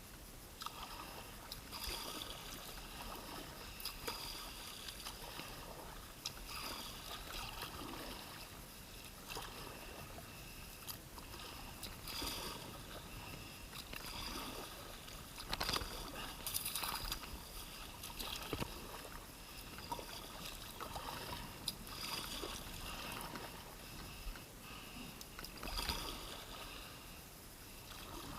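Kayak paddle strokes in water, splashing and dripping in repeated surges every second or two.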